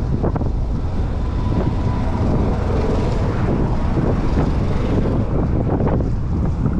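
Wind buffeting the microphone of a camera on a moving bicycle, a steady low rush, with street traffic mixed in.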